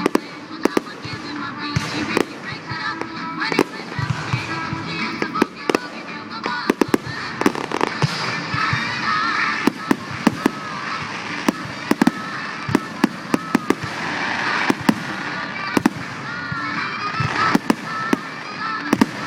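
Fireworks display: many sharp bangs and crackles going off in quick, irregular succession.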